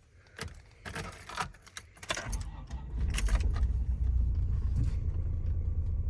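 Keys jangling in the ignition, then the Volkswagen Vanagon's engine starts about two seconds in and settles into a low, steady idle. It is running poorly and wanting to die.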